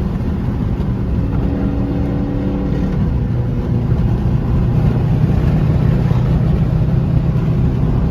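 Dodge Charger R/T's V8 engine and exhaust during a highway drive, a steady drone whose tone changes about three seconds in and then holds steady.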